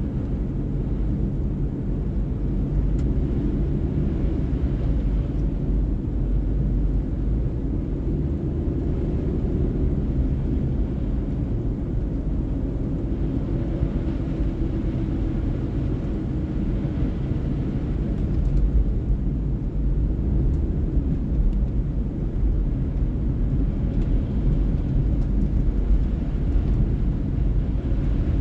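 Car driving at a steady speed: a continuous low rumble of engine and tyre noise, with faint steady engine tones under it.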